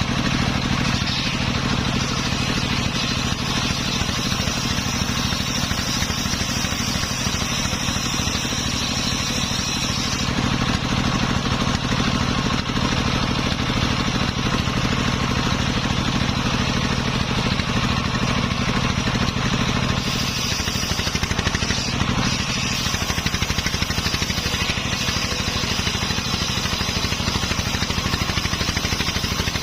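Engine of a homemade circular-saw rig running steadily, with a high whine above it that changes about ten and again about twenty seconds in.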